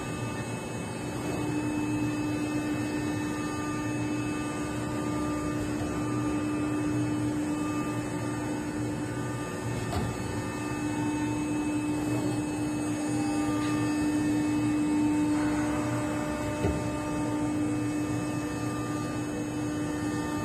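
CNC nesting router running, a steady machine hum with one strong, unchanging tone over it.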